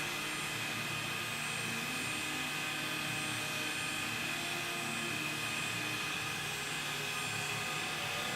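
Induction hardening machine running: a steady mechanical hum with a constant high whine over an even hiss.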